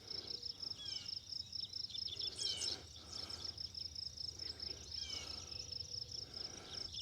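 Insects trilling in a steady, rapidly pulsing chorus, with a few short falling bird chirps about one, two and a half and five seconds in.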